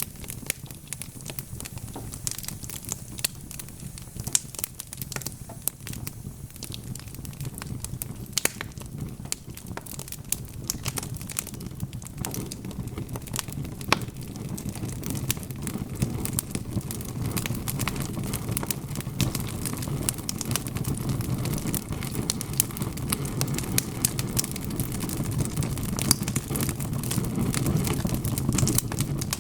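Wood fire crackling: frequent sharp pops and snaps over a low, steady rumble of flames, the rumble growing a little fuller about halfway through.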